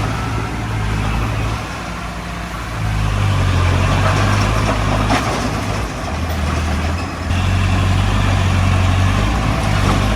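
Heavy-equipment diesel engine running steadily. Its level drops twice, about two seconds in and again around six to seven seconds, and picks back up each time, as the load changes.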